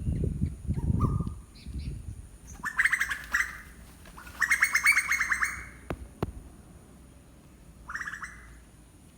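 A bird calling in three rapid, chattering bursts, each a quick run of pulses; a low rumble is heard in the first second or so, and two sharp clicks come about six seconds in.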